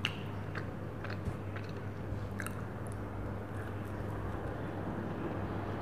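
Chewing and biting into a cream-filled donut, close to the microphone: scattered soft, wet mouth clicks and smacks.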